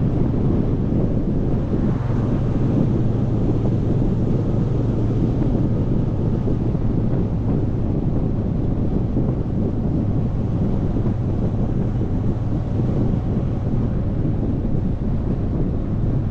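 Motorcycle riding at a steady speed: a constant low engine drone under heavy wind rush on the microphone.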